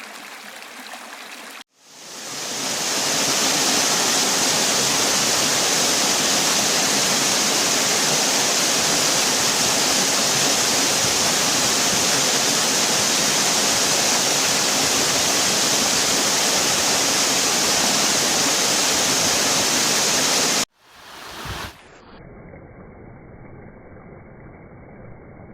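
Waterfall: a loud, steady rush of falling water that fades in about two seconds in and holds even. It is framed by hard cuts, with a quieter flowing-water sound before it and a quieter, muffled rumble after it near the end.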